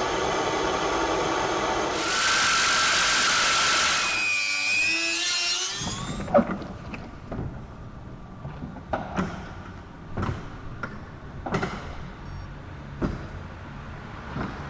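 Loud whirring, grinding noise with pitched tones for about six seconds, then a string of sharp clinks and knocks, roughly one a second, of hand tools on metal.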